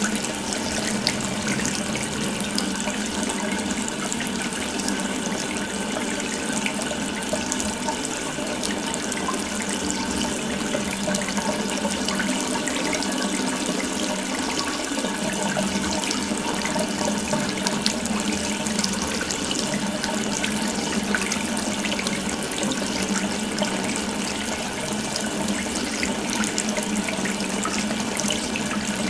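Water running steadily from an open tap, a continuous even splashing stream.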